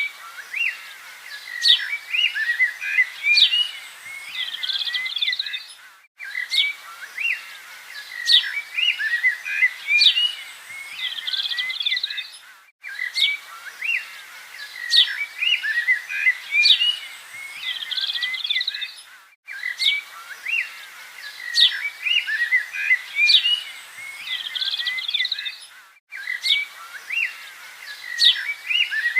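Many birds chirping and trilling, the same stretch of birdsong repeating as a loop with a short break about every six and a half seconds.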